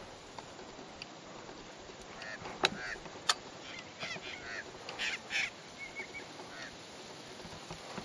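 Birds calling: a scatter of short pitched calls over a few seconds, with two sharp clicks close together about a third of the way through.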